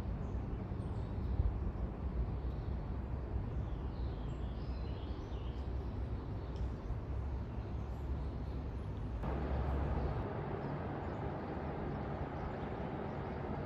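Low, steady rumble of a train fading off in the distance, with a few faint bird chirps about four seconds in. The background hiss steps up suddenly about nine seconds in.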